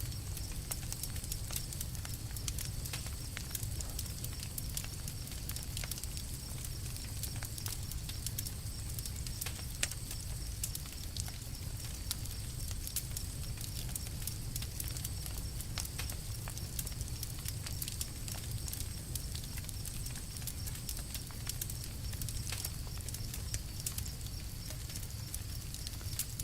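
Campfire crackling: irregular sharp pops and snaps from burning wood over a steady low rumble.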